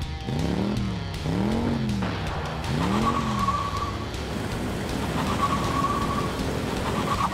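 Motorbike engine sound effect revving three times, each rev rising then falling in pitch. It is followed by high, steady squeals like tyres skidding.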